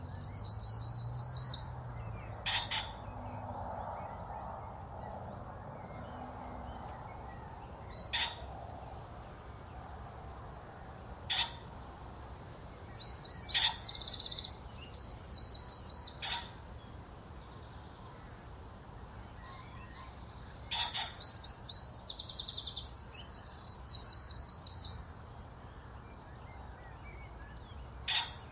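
Songbirds singing: bouts of high, rapid trilled phrases come in at the start, about halfway through and again near the end. Sharp single notes break in every few seconds.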